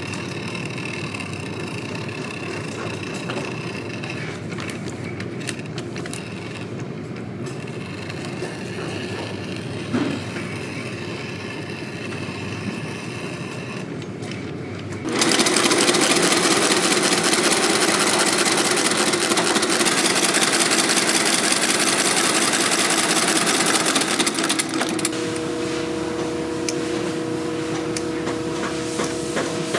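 Industrial sewing machine in a boot-repair shop stitching at speed: a quieter steady machine sound in the first half, then the machine runs loud from about halfway in with a fast, even needle rhythm, settling to a steadier hum with a clear tone over the last few seconds.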